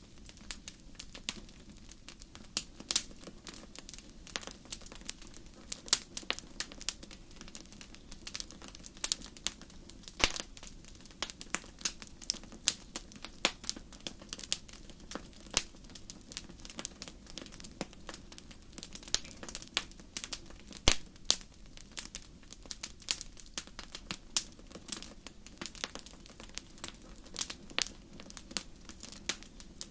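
Wood fire crackling and popping: irregular sharp snaps of burning logs, some much louder than others, over a low steady rumble of the flames.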